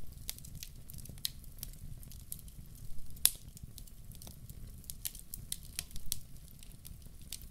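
Wood fire crackling in a fireplace: irregular sharp pops and snaps, one louder pop a little over three seconds in, over a low steady rumble of the flames.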